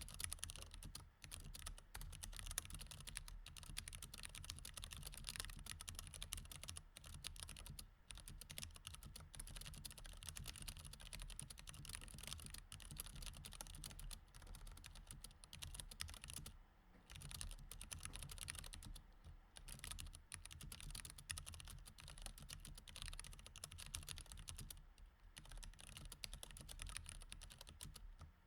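Mechanical keyboard with Cherry MX Red switches being typed on steadily, a dense run of key clicks with a few brief pauses.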